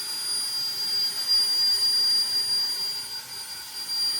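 Small handheld electric jet blower running flat out with a steady high-pitched whine, blowing shredded drive-belt debris out of a side-by-side's CVT clutch housing.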